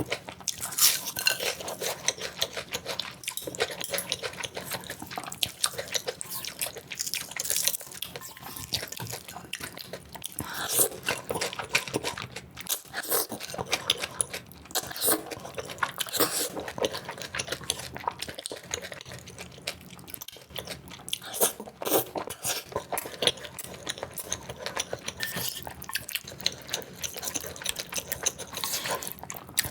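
Close-miked eating: rapid crunching and chewing mouth sounds, one bite after another, played back sped up.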